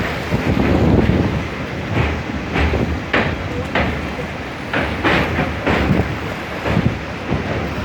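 Passenger train running over a sea bridge: a continuous low rumble with irregular clattering of wheels over rail joints, and wind on the microphone.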